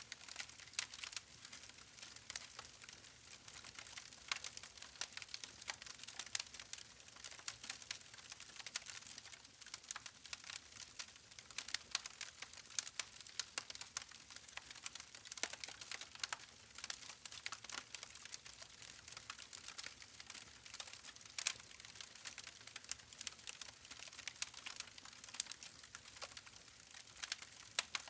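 Wood fire burning, with dense irregular crackles and snaps from the logs over a steady soft hiss.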